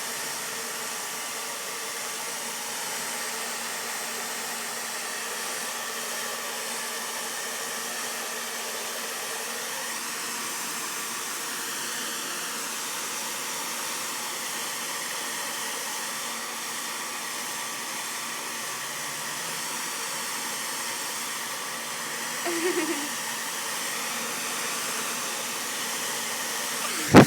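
Handheld hair dryer blowing steadily: a constant rush of air over a steady motor hum.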